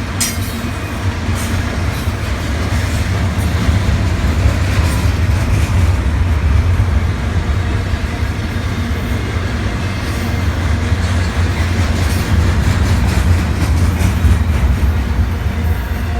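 Intermodal freight train rolling past, a steady low rumble of steel wheels on the rails with faint scattered clicks.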